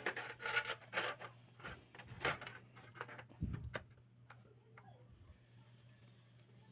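A run of light clicks, taps and scrapes of something being handled for about four seconds, then only a faint low steady hum.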